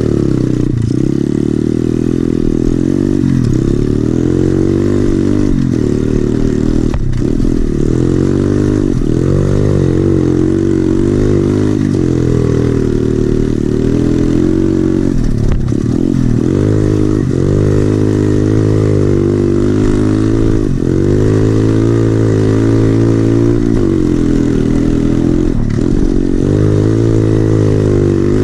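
SSR 110cc pit bike's single-cylinder four-stroke engine with an FMF exhaust being ridden hard, revving up and falling off again and again as the throttle is opened and shut, its pitch climbing and dropping every second or two.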